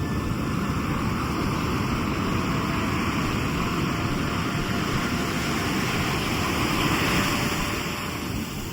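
Sea surf: a wave rushes in, building to its loudest about seven seconds in and easing off near the end, over a steady low rumble of the sea.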